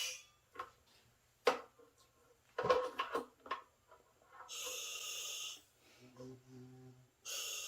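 Breathing through a diving regulator on a surface air supply: a few light clicks and knocks, then an inhale hiss about halfway, a buzzing exhale, and a second inhale hiss near the end.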